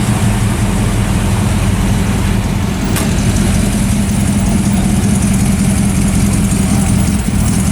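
Car engine idling steadily, with a single sharp click about three seconds in.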